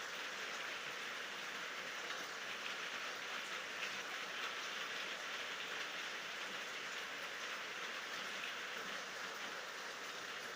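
Steady rainfall: an even hiss with faint scattered drop ticks, without thunder.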